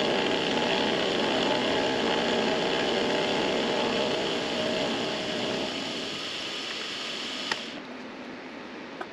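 Benchtop machine tool running while its cutter takes a slow finishing cut in aluminium: a steady motor whine under a cutting hiss. About seven and a half seconds in a click sounds and the hiss stops suddenly, leaving the motor running more quietly, with another small click near the end.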